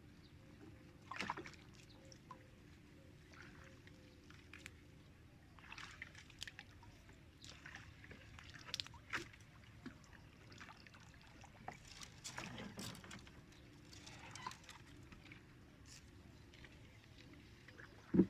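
Light water splashes and sloshing around a small boat on marsh water, with scattered small knocks. A single sharp, louder knock comes at the very end.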